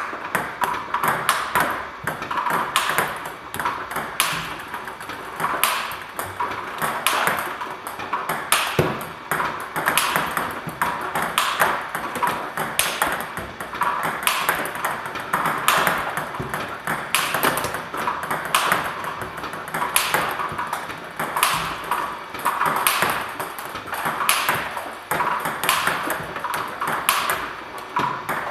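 Table tennis ball struck by a racket with sticky Nittaku Hurricane and VICTAS Triple Double Extra rubbers and bouncing on the table, in a steady rally: a sharp hit roughly every second and a half, with quieter bounce clicks between.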